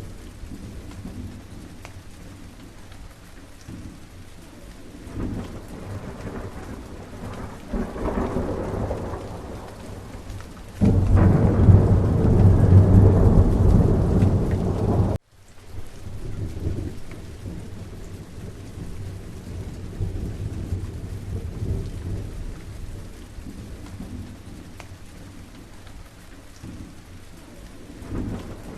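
Steady rain falling during a thunderstorm, with thunder rumbling. A loud, deep peal of thunder sets in about eleven seconds in, lasts around four seconds and cuts off suddenly.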